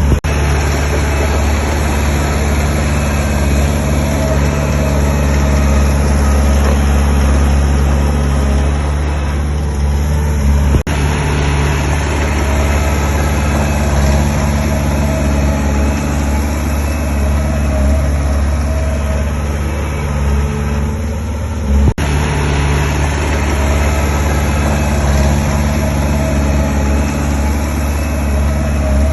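Diesel engine of heavy earthmoving equipment running steadily with a deep, even drone, with two abrupt breaks about 11 and 22 seconds in.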